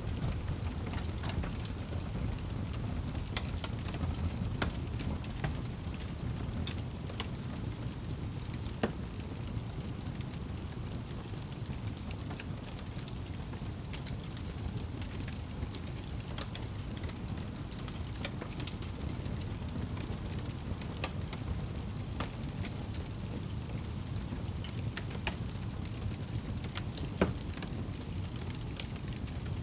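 Crackling fire with scattered sharp pops over a steady low rumble of rain. The two loudest pops come about nine seconds in and near the end.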